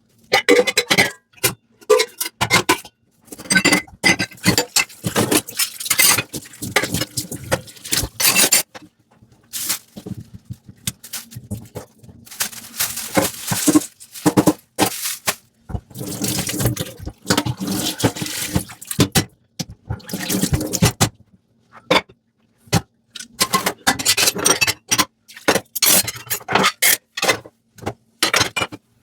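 Dishes being washed by hand at a sink: a soft sponge scrubbing, crockery clinking and scraping, and water running and splashing, in irregular bursts with a few short pauses.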